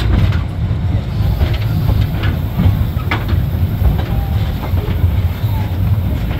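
Open passenger cars of a narrow-gauge steam train rolling along the track: a steady low rumble with scattered sharp clacks from the wheels over the rails.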